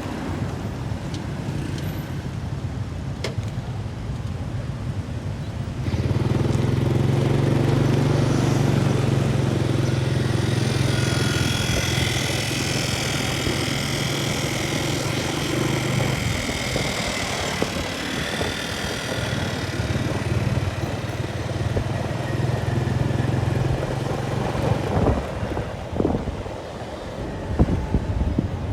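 A motor engine running steadily with a low hum that starts abruptly about six seconds in and drops away a few seconds before the end, under an airy hiss.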